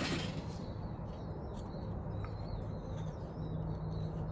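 A steady low hum, with faint bird chirps over it and a brief rustle of handling right at the start.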